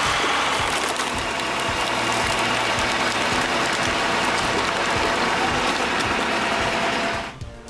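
Engine-driven machinery running loud and steady with a dense mechanical clatter over background music with a regular beat; the machine noise cuts off about seven seconds in, leaving the music.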